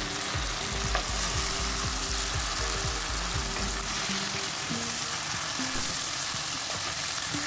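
Onions and tomatoes frying in oil in a nonstick wok, a steady sizzle, while a wooden spatula stirs and scrapes through them, with repeated low knocks during the first four seconds.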